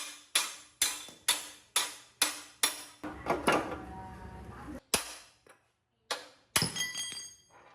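Hammer striking metal in a steady rhythm, about two blows a second. After a short break come a few more blows, one leaving a metallic ring.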